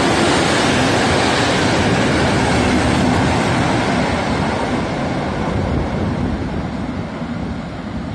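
A historic passenger train rolling past at speed, its wheels running on the rails in a steady loud rumble. The sound fades gradually through the second half as the last wagon moves away.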